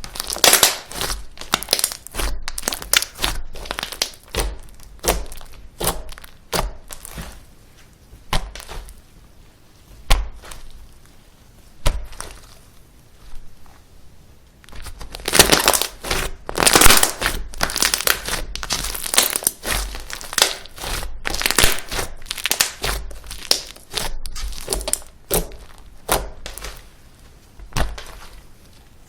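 Slime being squeezed, stretched and pressed by hand, giving many sharp crackling clicks and pops in irregular bursts, with a brief lull about halfway through.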